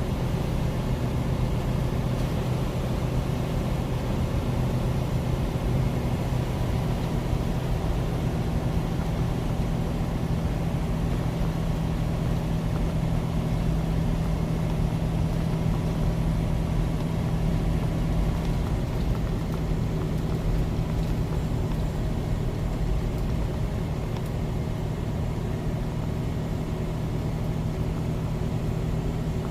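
Semi truck's diesel engine running at a steady cruise, heard from inside the cab, with a constant hum of road and wind noise.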